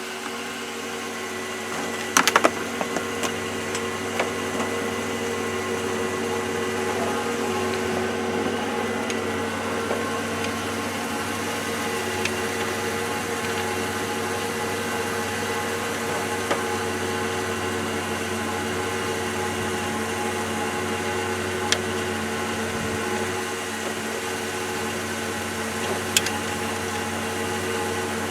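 Steady machine hum holding an even pitch, with a few faint clicks.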